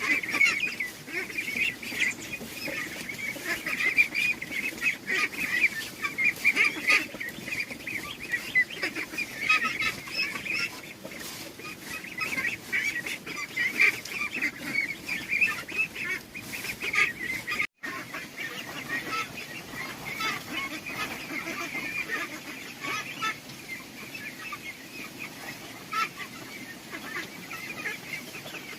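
A flock of domestic poultry calling: many short, overlapping calls in a continuous chatter, with a very brief break about eighteen seconds in.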